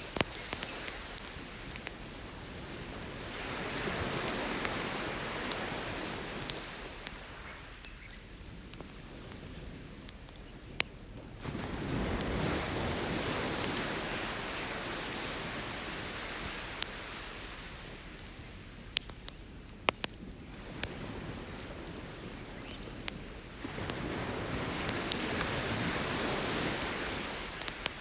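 Ocean waves washing ashore, swelling and fading three times, with the sharp pops and crackles of a wood campfire over them.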